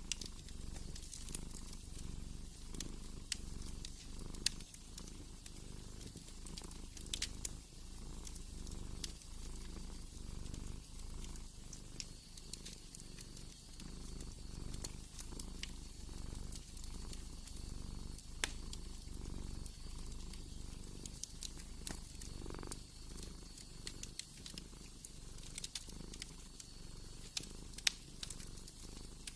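A cat purring steadily, a low rumble pulsing with its breaths, over the sharp crackles and pops of a wood fire in a fireplace.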